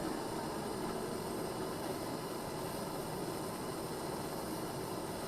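Gas brazing torch flame hissing steadily while refrigerator copper pipe is brazed.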